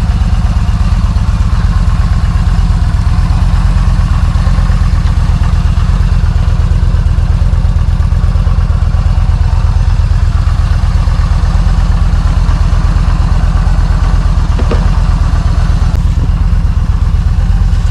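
Yamaha motorcycle engine running steadily and loud, its even firing pulses holding one pitch without revving.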